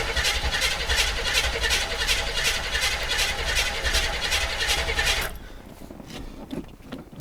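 Starter motor cranking the 350 small-block V8 of a 1981 Chevy Blazer on a cold start, in an even pulse of about five beats a second. The engine does not catch, and the cranking stops abruptly about five seconds in. The carburettor has no choke and fuel has not yet been drawn up after long standing.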